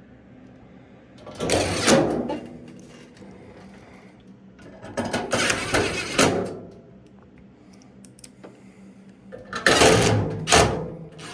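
A cordless drill/driver runs in three short buzzing bursts, about four seconds apart, driving screws back into a dryer's sheet-metal panel.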